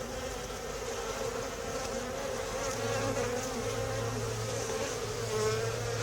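Many honeybees buzzing in a steady drone around an opened hive while its frames are being inspected; the pitch wavers a little as bees fly past.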